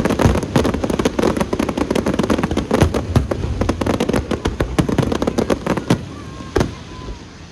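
Aerial fireworks going off in a dense, rapid run of crackling bangs. About six seconds in it thins to a few single bursts.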